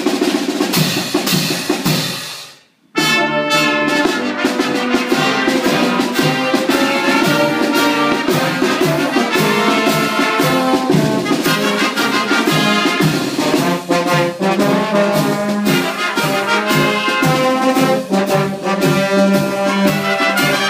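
Brass band music with trumpets, trombones and drums. It fades away to near silence about two and a half seconds in, then starts again abruptly.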